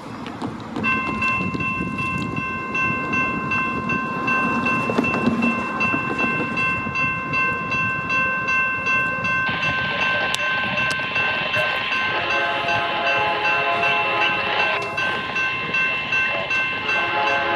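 General Signal Type 2 electronic railroad crossing bells start about a second in, ringing a fast, steady repeating ding. From about twelve seconds in, the lead BNSF locomotive's Nathan K3LA five-chime horn blows over them, with a short break near fifteen seconds.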